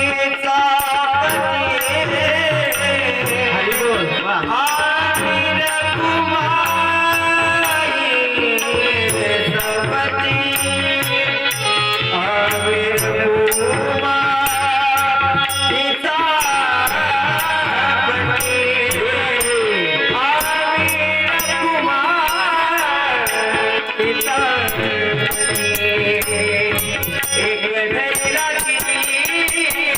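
Marathi devotional bhajan: a solo singer's voice gliding between held notes over a steady beat of rhythmic percussion.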